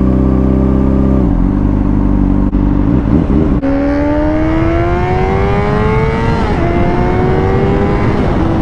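Honda CBR600RR's inline-four engine under way: the note holds, then falls off about a second in. From a little before midway it climbs in one long rising pull, drops sharply at a gear change, and climbs again before dropping at another shift near the end, over steady wind noise.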